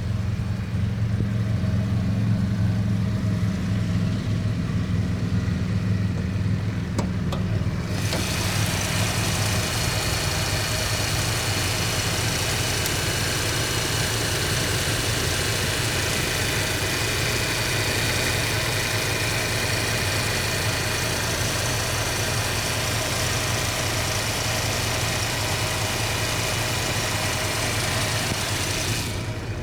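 A 1985 Mustang GT's 302 V8 idling steadily. About eight seconds in, a bright hiss with steady high whines joins the idle and holds to near the end.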